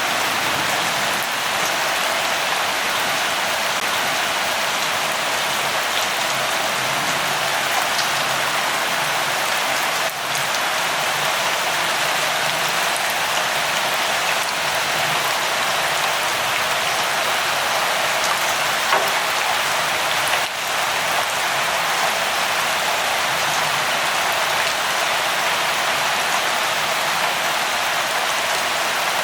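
Steady rain falling: an even, dense hiss with scattered individual drops ticking through it.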